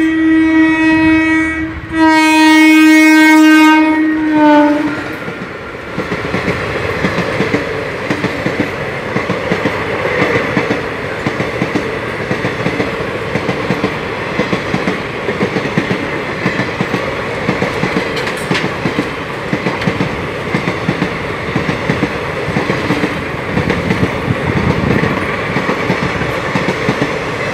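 Indian Railways superfast express train passing through a station at full speed. The locomotive horn gives two loud blasts, the second one longer and dropping in pitch at its end. Then come the coaches going by in a steady rumble with a rapid clickety-clack of wheels over the rail joints.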